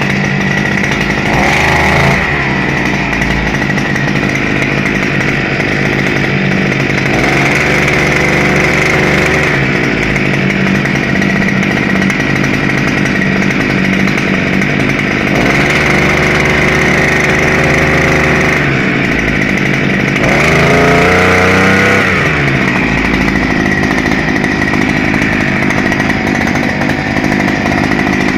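Small two-stroke brush-cutter engine of a TATRA outboard motor running steadily, revving up and back down once about twenty seconds in. It stops abruptly at the very end.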